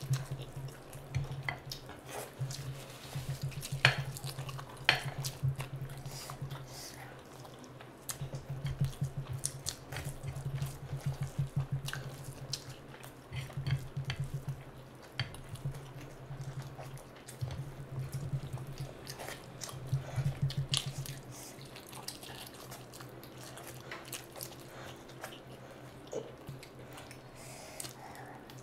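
Close-miked eating by hand: wet chewing and lip-smacking as mutton curry and rice are eaten, with many sharp wet mouth clicks and stretches of fast, steady chewing.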